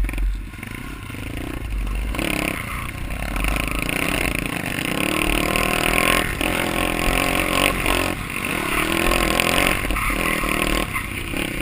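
Pit bike engine being ridden hard, revving up in several runs broken every second or two as the throttle is rolled off and back on.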